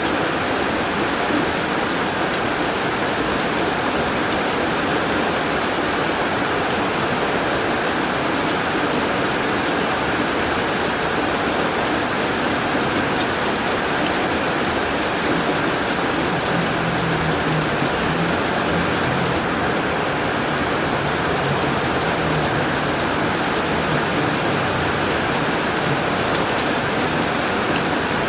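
Heavy rain pattering steadily on a tin roof, with a faint low rumble of distant thunder in the second half.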